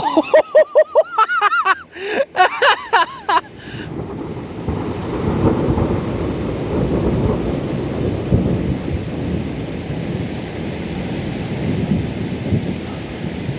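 Thunder from a nearby storm: a long rolling rumble that starts about three and a half seconds in, swells, and keeps rolling to the end. Before it, a person's voice makes a quick run of short rising-and-falling sounds.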